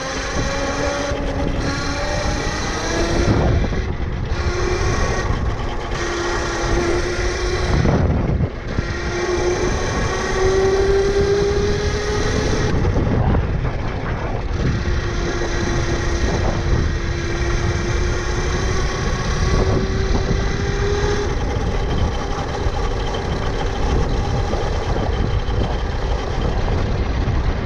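Tuttio Soleil 01 electric dirt bike's motor whining while riding, its pitch rising as the bike speeds up and dropping away each time the throttle is let off, several times over. Wind buffets the helmet microphone throughout, with a steady rumble of tyres underneath.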